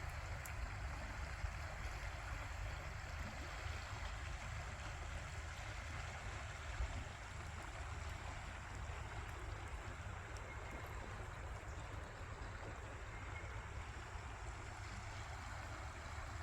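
Steady rushing noise of running water, with a low rumble of wind on the microphone.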